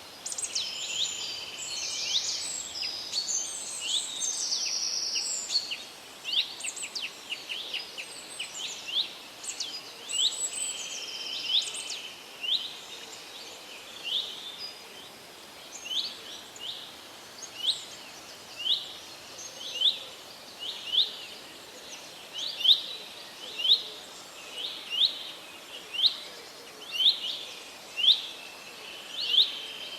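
Wild birds singing: several overlapping songs and chirps at first, then from about halfway one bird repeats a short rising call a little more than once a second, growing louder towards the end.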